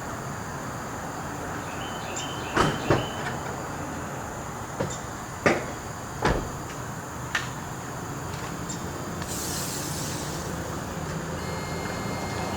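Hand tools working on a motorcycle engine while spark plugs are being removed: a handful of sharp metallic clicks and knocks, scattered irregularly, over steady outdoor background noise, with a brief hiss about nine seconds in and a low rumble slowly building near the end.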